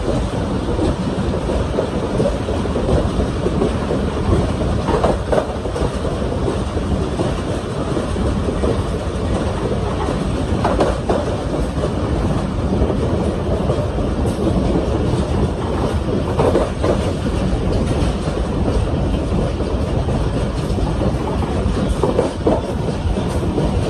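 Pakistan Railways railcar running along the track: a steady rumble of wheels on rail, with a louder clatter every five or six seconds.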